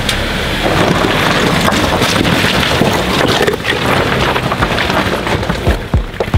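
Jeep Wrangler engine running as it crawls over rocks, with heavy wind buffeting the microphone. A few low thumps come near the end.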